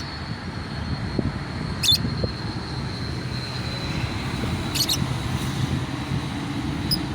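Lovebirds giving short, shrill chirps three times over a steady rumble of toll-road traffic.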